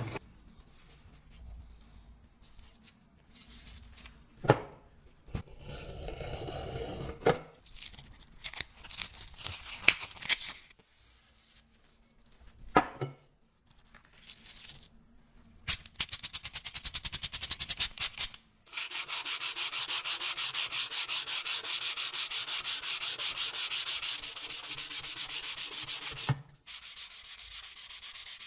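Sanding on a dagger: scattered knocks and scrapes at first, then from about halfway a steady, fast, even rasping that stops shortly before the end.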